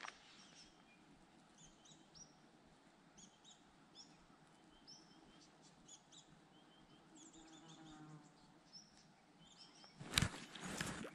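Small birds chirping faintly, in short, repeated high calls. Near the end come loud rustling and knocks close to the microphone.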